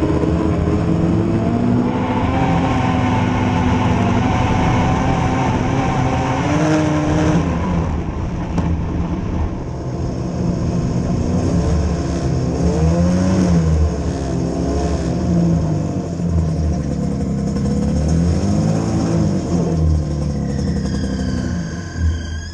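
Small vehicle engine running as it is driven, its pitch rising and falling with the throttle several times.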